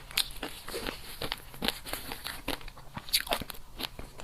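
Close-miked eating sounds: crunchy biting and chewing, a quick, irregular run of sharp crunches.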